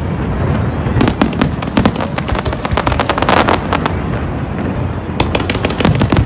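Fireworks going off in rapid succession: dense crackling pops over a steady low rumble, thickest about a second in, again around three seconds in and near the end.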